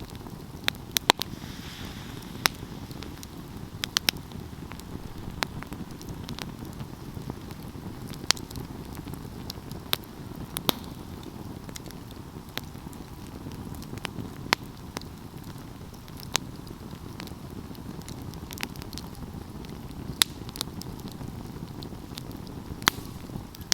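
Wood fire burning: a steady low rush of flames with sharp, irregular crackles and pops every second or so.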